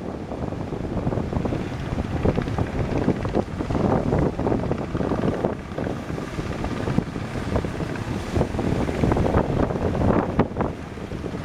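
Strong wind gusting over the microphone, with the rush of surf beneath it.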